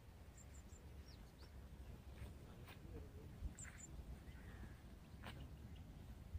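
Faint outdoor ambience: small birds chirping in short, high, quick notes over a low steady rumble, with a few soft clicks.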